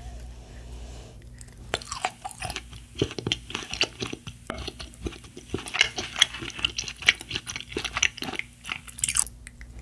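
Close-miked biting and chewing of a shark-shaped chocolate: one sharp bite at the start, then crisp crunching and chewing through most of the rest.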